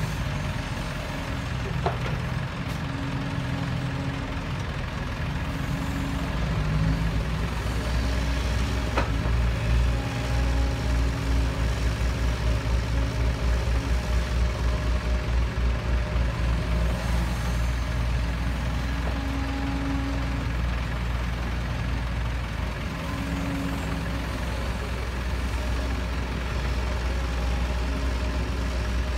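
Heavy diesel engine running steadily, with a fast pulsing in its sound for several seconds in the middle.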